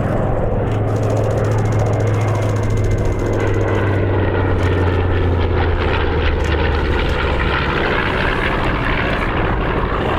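Formation of piston-engined warbirds (B-25, P-38 Lightning, P-51 Mustang and F4U Corsair) flying past with a steady propeller drone, whose low note drops in pitch about halfway through as they pass.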